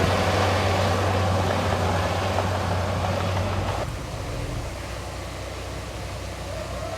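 Heavy diesel engine running at a steady speed, dropping away sharply a little under four seconds in to a quieter, lower rumble.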